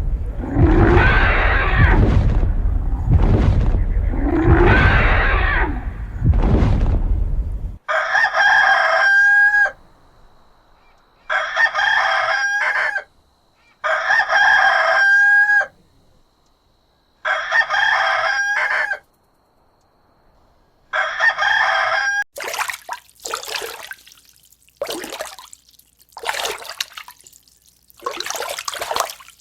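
Deep, loud rumbling animal calls for the first several seconds. Then a large fowl calls five times, evenly spaced, each call about a second and a half long and ending with a slight upturn in pitch. Near the end come irregular splashing water sounds.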